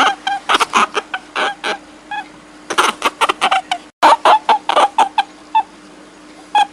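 A rapid series of short, sharp animal calls, several a second, with a brief gap about four seconds in and a steady low hum beneath.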